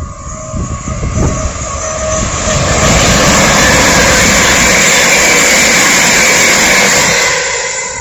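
A train passing close by at speed. Its noise builds over about three seconds, holds steady and loud, then falls away sharply near the end as the train clears.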